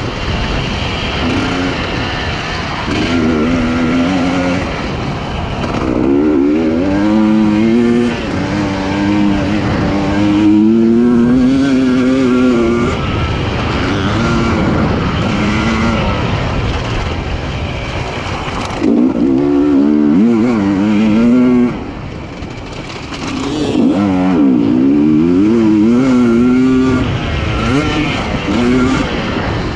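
2020 Husqvarna TE300i single-cylinder two-stroke enduro engine, ridden hard with the throttle opened and closed over and over, its pitch repeatedly climbing and falling. The engine drops off sharply for a moment a little past the middle before picking up again.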